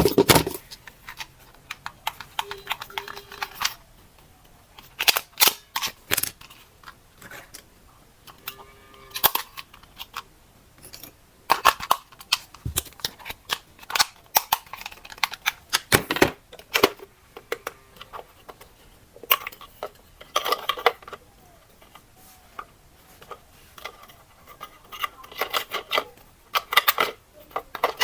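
Hands handling a toy and its packaging: irregular clusters of sharp clicks, taps and rustling, with short quiet gaps between.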